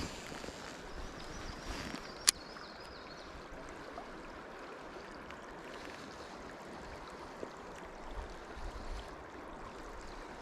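Creek water running steadily over rocks, with one sharp click about two seconds in.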